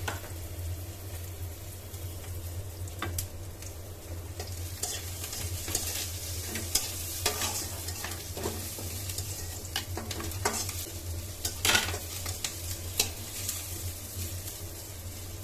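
Fish curry cooking in a pan, sizzling steadily, with a spatula scraping and knocking against the pan every second or two as it is stirred. A steady low hum runs underneath.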